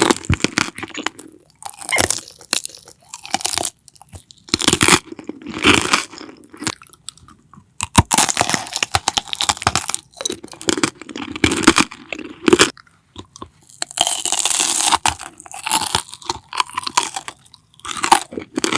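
Close-miked crunchy food being bitten and chewed: crisp, crackling crunches come in irregular clusters of a second or so, with short quiet pauses between mouthfuls.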